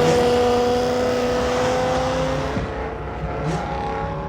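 A car engine revved hard and held at high revs, its pitch creeping up, then easing off about two and a half seconds in; a weaker engine note carries on after.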